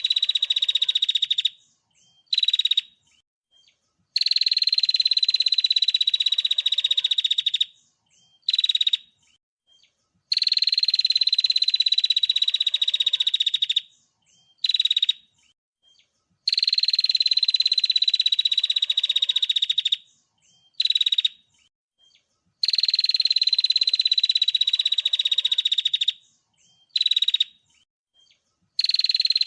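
Songbird song played as a looped training recording: a long buzzy trill, falling slightly in pitch, lasting about three and a half seconds, then a short burst of the same call, the pattern repeating about every six seconds.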